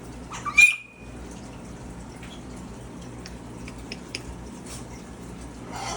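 A macaw gives one short, loud, high-pitched squawk about half a second in. After it there are only a few faint scattered ticks over a steady low hum.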